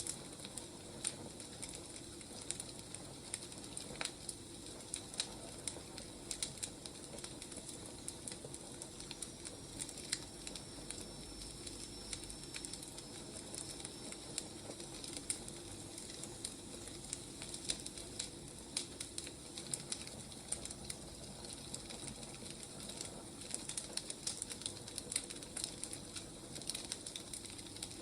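Wood fire crackling: a steady soft hiss with irregular sharp pops and snaps of burning logs.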